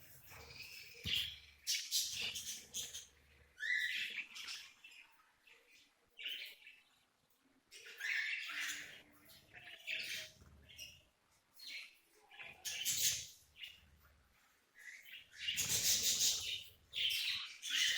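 Budgerigars chirping and chattering in irregular bursts with short pauses between, growing busier and louder near the end.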